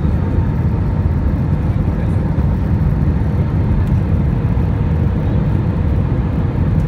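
Steady rumble of jet engines and rushing air inside an Airbus A320 cabin, with a faint steady whine above it.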